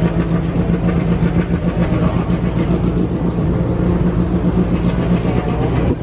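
An engine running steadily, a low even drone with no change in pitch, over a dense background din.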